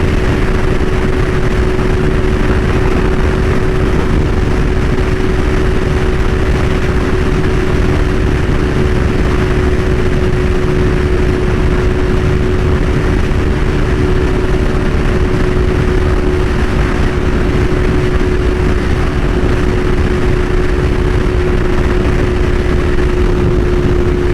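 CFMOTO 450SS parallel-twin engine with an aftermarket slip-on exhaust, running steadily at a constant speed while riding. The engine note holds one unchanging pitch over a loud, steady rush of wind.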